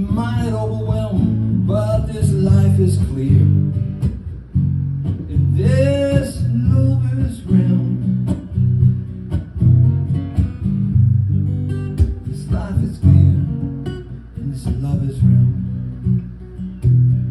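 Strummed acoustic guitar playing steadily, with a few sustained wordless vocal notes in the first few seconds and again around six seconds in.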